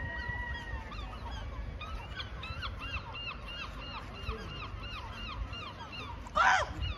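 Birds calling over and over, short arched calls several a second, with one loud, harsh call about six and a half seconds in.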